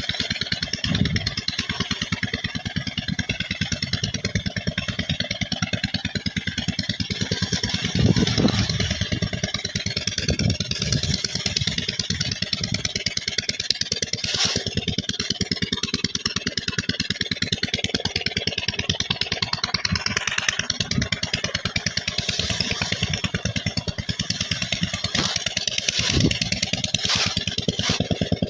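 A 12LD engine driving a tubewell pump, running steadily with a fast, even beat, and a few louder knocks.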